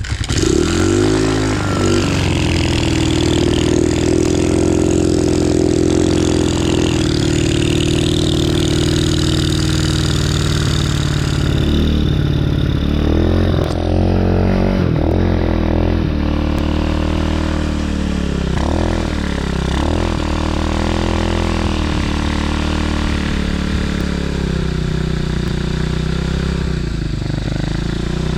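DB14 dirt bike's small single-cylinder engine catching on a kick start with the choke on and running. The revs rise and fall right after it fires, then it runs steadily, with several throttle blips in the second half.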